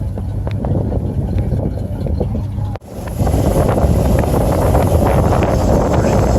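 Wind buffeting the microphone, with faint voices in the background. Just under three seconds in the sound cuts off abruptly and comes back louder, with more hiss.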